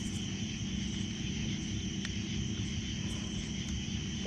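Steady outdoor background on the water: a low, even drone with constant high-pitched tones over it, like an insect chorus.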